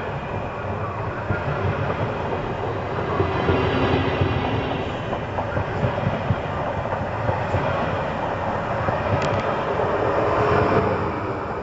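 PKP Intercity ED160 (Stadler FLIRT) electric multiple unit rolling past close by: a steady rumble of wheels on rail with some clatter from the running gear, swelling twice as the cars go by. A brief sharp squeak comes about nine seconds in.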